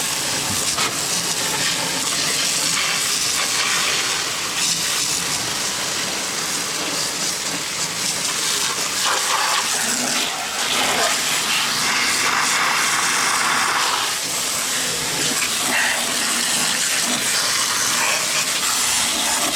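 Garden hose spray jetting water against a lawnmower deck, washing out caked grass clippings: a steady hiss that brightens and shifts as the spray moves.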